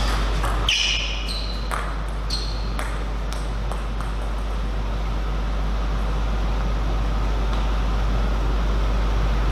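Table tennis rally: a celluloid ball clicking off paddles and the table about eight times in the first four seconds, with a few short high squeaks, then the rally stops, leaving a steady hall hum with a low electrical drone.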